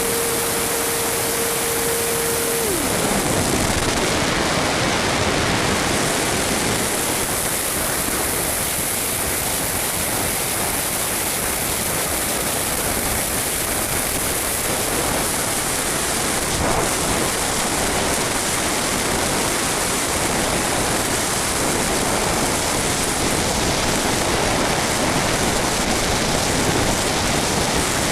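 Steady rush of wind over the onboard camera of an RC Blizzard model plane in flight. A single steady motor tone glides down and stops about three seconds in, as the motor is throttled back.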